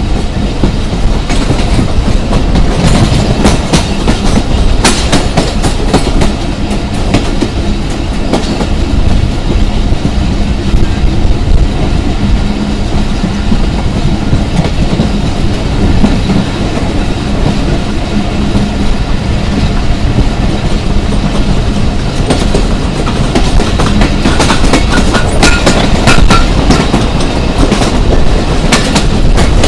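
Passenger train coach running on the rails, heard from an open doorway: continuous wheel rumble with clickety-clack over rail joints. The clacking is thickest near the start and again in the last several seconds.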